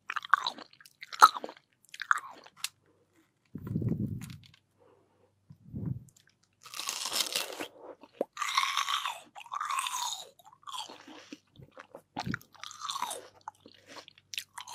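Close-miked watermelon being bitten and chewed: crisp, juicy crunches, densest from about halfway through, with two low muffled thumps between them.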